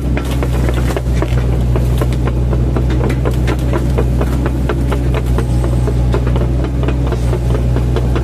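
Mini excavator's diesel engine running steadily, with frequent sharp knocks and clatter throughout as it works chipping oil palm trunks.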